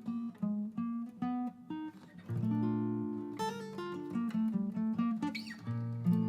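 Acoustic guitar playing the closing bars of a song alone: single plucked notes, then fuller chords, with a last chord struck near the end and left to ring.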